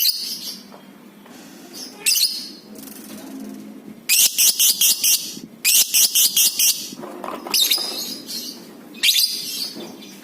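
Lovebird calling: short shrill chirps, and in the middle a long run of rapid, piercing repeated notes, the long chatter that keepers call 'ngekek'.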